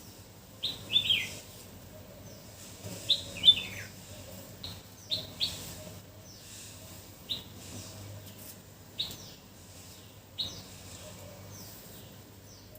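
Birds chirping: short chirps that fall in pitch, every second or two and sometimes in quick pairs, with fainter calls from other birds behind them.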